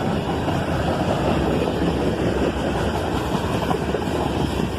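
Slow-moving freight train led by a GE Dash 8 and an AC44CW diesel locomotive running past, a steady low rumble.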